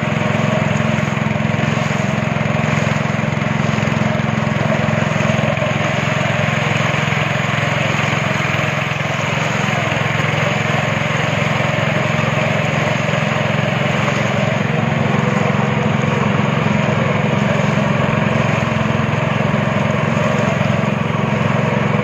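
Speedboat engine running steadily at speed, with a constant rushing noise over it the whole time.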